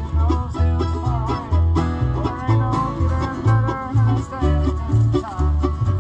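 Acoustic bluegrass jam with banjo and guitar, over a bass line that alternates notes about twice a second.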